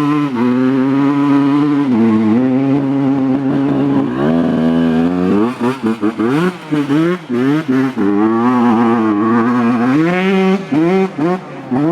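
Honda CR125 two-stroke single-cylinder engine revving, its pitch climbing and dropping again and again, with a run of brief throttle cuts from about five to eight seconds in and again near the end.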